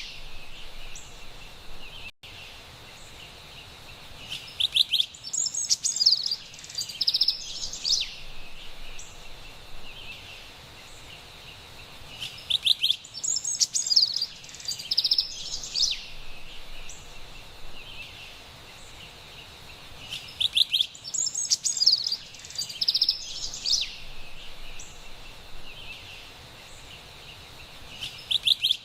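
Carolina wren singing: bouts of about three seconds of quick, repeated high notes, coming back roughly every eight seconds, over a steady soft forest hiss.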